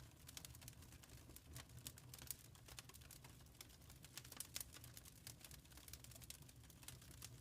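Wood fire crackling faintly in a fireplace: many irregular quick snaps and pops over a low steady rumble.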